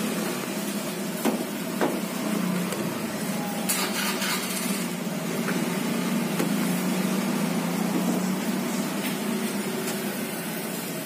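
Food-stall kitchen clatter: a few sharp clinks of bowls and utensils and a brief hiss about four seconds in, over a steady low hum.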